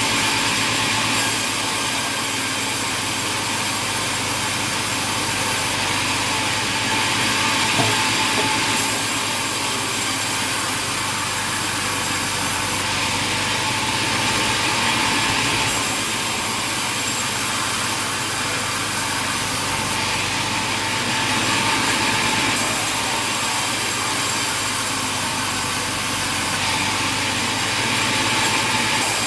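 Sawmill machinery running steadily, with a louder, hissier saw cut swelling for two or three seconds about every seven seconds.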